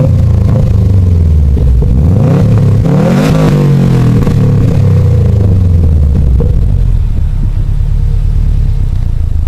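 2013 Subaru WRX's turbocharged flat-four revving through a custom 3-inch straight-back exhaust with an HKS rear muffler: one rev dropping back at the start, a bigger rev peaking about three seconds in and falling away, then settling to a steady idle for the last few seconds.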